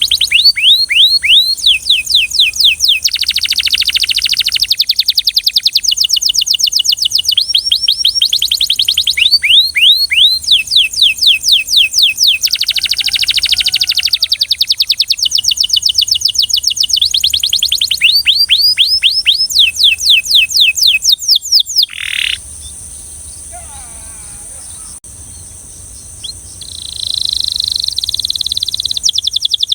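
Belgian canary singing: fast, rhythmic runs of repeated downward-sweeping whistled notes alternating with dense rolls, breaking off about three-quarters of the way through. After a short lull a rolling trill starts near the end.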